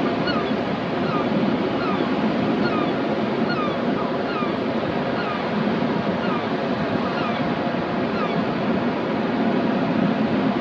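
Waves breaking on the shore with wind, a steady rush of surf, over which birds give short, falling calls again and again, thinning out near the end.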